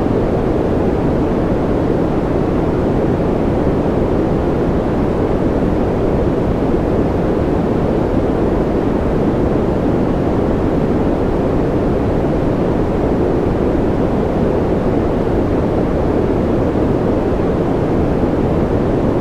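Steady, deep rushing noise of a sleep "white noise" track, even and unchanging, with no separate drops, clicks or other events.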